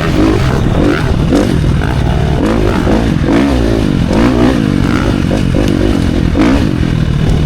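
Dirt bike engine revving up and falling back again and again as the throttle is worked around a motocross track, with some clattering over rough, rocky ground.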